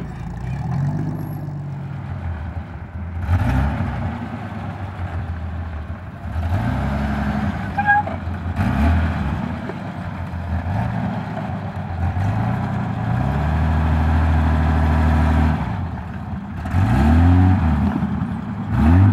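Off-road 4x4 engine revving in repeated surges, pitch rising and falling, as the vehicle crawls under load over concrete beams. A longer steady, higher-revving stretch comes about two-thirds of the way through, followed by more quick surges near the end.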